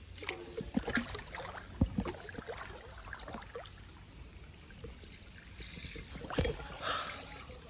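Water sloshing and splashing irregularly as a person climbs down into a natural swimming pool, with a louder splash about six and a half seconds in.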